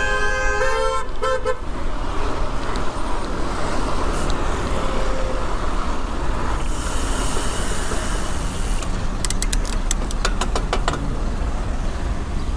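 A vehicle horn honks in a few short blasts about a second in, over a steady low rumble of wind and traffic noise. Later a quick run of sharp clicks comes and goes.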